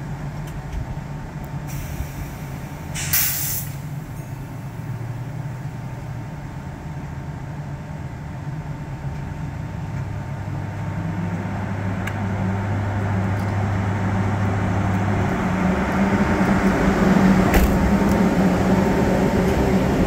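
Locomotive-hauled train at a station: a steady low hum, a short sharp hiss of released air about three seconds in, then the train's running noise growing steadily louder over the second half.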